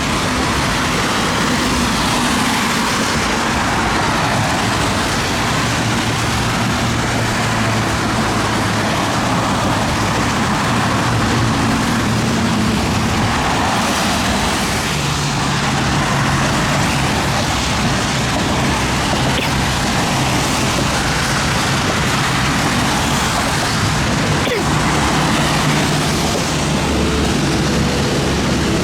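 Steady rushing noise of thunderstorm rain and wind, with a low hum that shifts in pitch now and then underneath.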